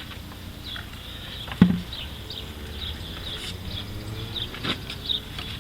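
Intake plenum being handled and set down onto the engine: a sharp knock about a second and a half in and a lighter one near the end. Faint, short, high chirps repeat throughout.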